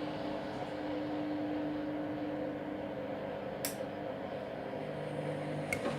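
Candy Grand'O Vita washing machine's drum motor humming as it turns the drum to distribute the load during a pre-wash. The hum changes pitch about halfway through, and there is a sharp click a little past the middle and a smaller one near the end.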